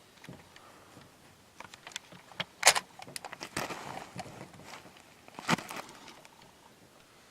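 Clicks, rattles and knocks of rifle gear being handled on a truck bed, with two sharp knocks about two and a half seconds and five and a half seconds in.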